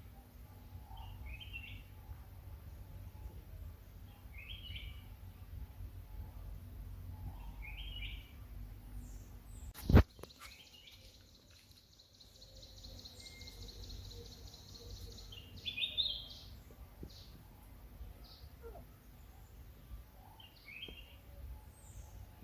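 Outdoor ambience: a bird gives a short call about every three seconds over a low wind rumble. About ten seconds in there is one sharp knock, followed by a high, even trill lasting about five seconds.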